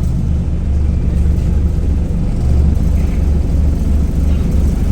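Wright Gemini 2 hybrid double-decker bus running, heard from on board, with a steady low rumble.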